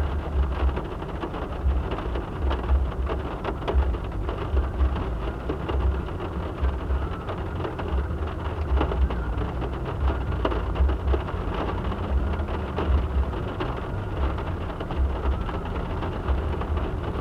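Steady rain falling, with many small drop ticks and irregular low thumps throughout.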